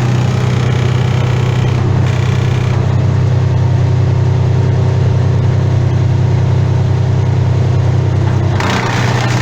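An engine running steadily at a constant speed, with a rush of louder noise coming in near the end.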